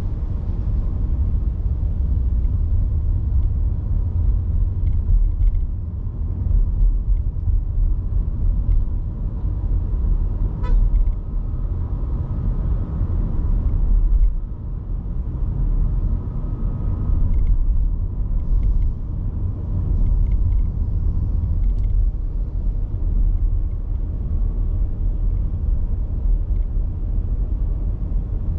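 Car driving on a city road: a steady low rumble of tyres and engine, with a brief click about ten seconds in.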